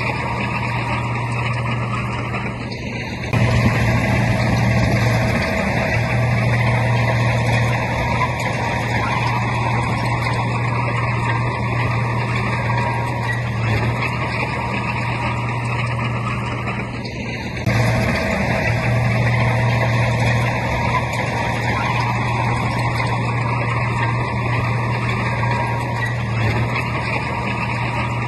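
Heavy diesel engine of earthmoving machinery running steadily under load. It gets louder abruptly twice, about three seconds in and again near eighteen seconds.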